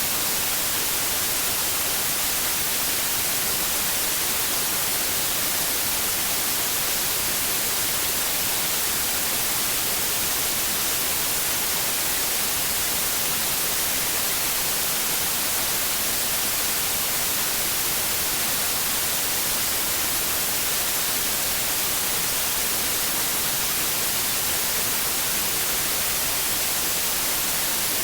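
White noise played as a sleep aid for babies: a steady, unchanging hiss, strongest in the high frequencies.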